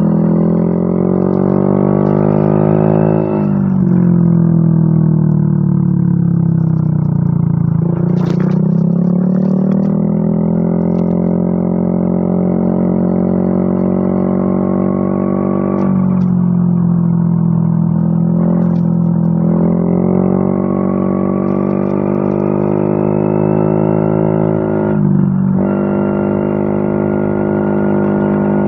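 Yamaha Mio M3 scooter's single-cylinder engine revving through an aftermarket WRX exhaust. The revs are held up and climb slowly, drop back and climb again several times, with a droning exhaust note.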